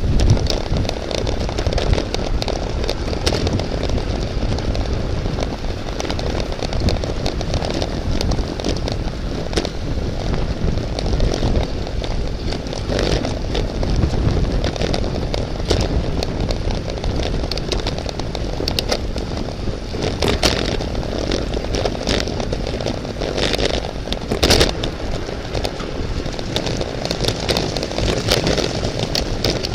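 Steady rush of wind on the microphone and road rumble from a racing bicycle at speed, with scattered clicks and rattles.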